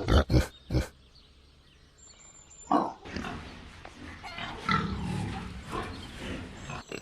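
Animal calls: a few short sharp calls in the first second, then after a pause a louder call and a jumbled run of calls from about three seconds in.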